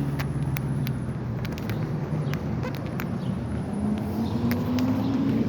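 Passing road traffic: a steady noise of car engines and tyres, with one vehicle's engine tone rising slightly about four seconds in, and scattered light clicks.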